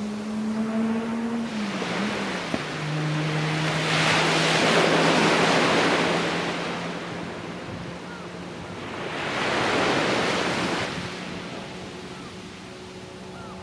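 Sea waves breaking and washing up a sandy beach, two swells of surf rising and falling, with wind noise, over a steady low engine hum.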